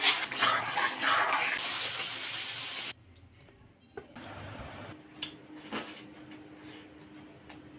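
Chicken frying in hot oil in a kadai and being stirred with a metal spatula: an even sizzle for about three seconds that then cuts off abruptly. What follows is much quieter, with a few faint clicks and a low steady hum.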